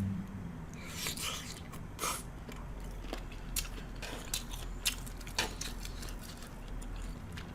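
Close-up chewing and mouth sounds of a person eating grilled shrimp, with scattered soft smacks and clicks, over a faint steady electrical hum.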